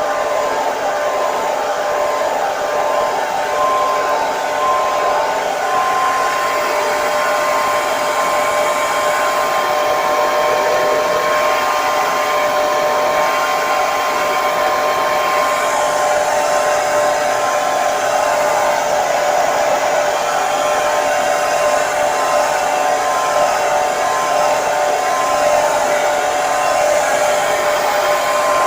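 Electric hair dryer running continuously: a steady rush of air with a constant motor whine.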